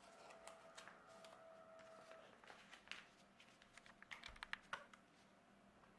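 Faint crackles and taps of a sheet of paper being handled, pushed down and creased by hand while folding an origami boat.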